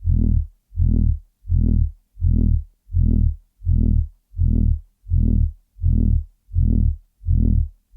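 A loud, low electronic hum throbbing on and off at a steady rate of about one and a half pulses a second, each pulse swelling and fading away with a short silence between.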